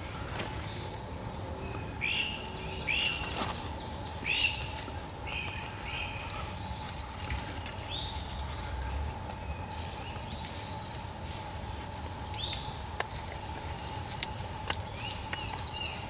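A bird calling: short, down-slurred chirps repeated irregularly, about a second or more apart, over a faint steady tone.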